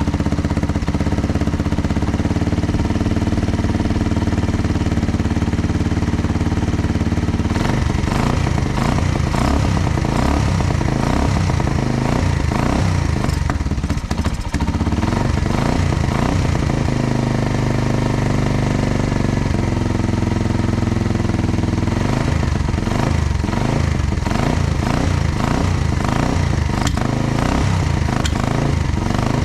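Motorcycle engine running loudly without a break, its note changing several times as the throttle is worked.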